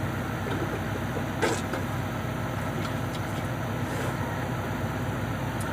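Backhoe excavator's diesel engine running steadily with a low, even rumble, with one short knock about a second and a half in.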